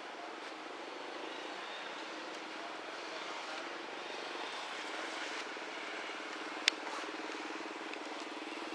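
An engine running steadily, its low hum growing a little louder, with one sharp click about two thirds of the way through.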